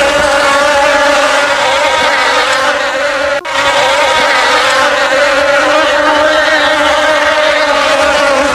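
Insects buzzing: a steady, loud drone with a brief break about three and a half seconds in.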